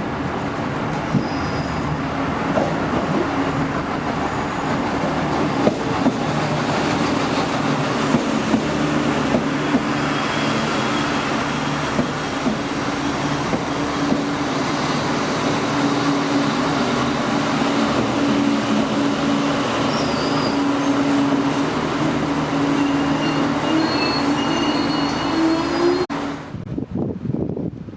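A train running, with a steady hum whose pitch rises slightly near the end, and brief faint high wheel squeals. The sound cuts off suddenly a couple of seconds before the end.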